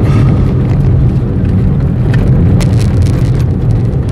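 Chevrolet Beat's small engine pulling steadily on a wet track, heard from inside the cabin, with tyre and rain noise. A few sharp ticks, the clearest about two and a half seconds in.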